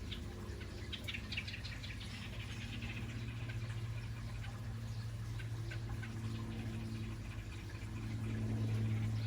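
Small bird chirping in a quick series of short, high notes during the first few seconds, with fainter scattered chirps after. A steady low hum runs underneath and grows louder near the end.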